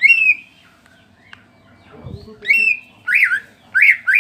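Cucak ijo (green leafbird) in moult, singing loud whistled notes: a rising whistle at the start and another about halfway, then a quick run of sharp down-and-up notes, about three a second, near the end.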